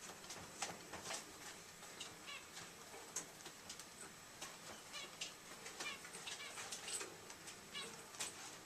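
Pet rat chewing Swiss cheese: faint, irregular small clicks and smacks of its teeth and mouth, several a second.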